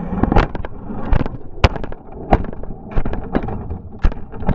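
Tamiya Lunchbox RC monster truck driving over rough ground: a dense run of irregular thumps and knocks as it bounces and lands, over a rattling, noisy running sound.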